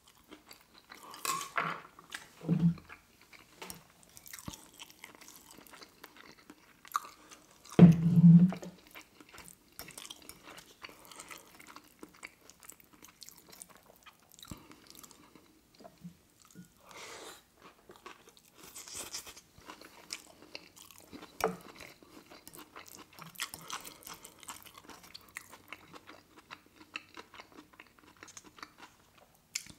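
A person chewing food close to the microphone: fried dumplings and pad thai noodles, with scattered crisp crunches and wet chewing. A louder, low, short sound comes about eight seconds in.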